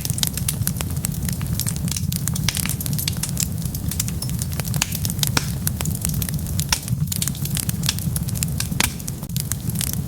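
Wood fire burning with dense, irregular crackles and pops over a steady low rumble of the flames.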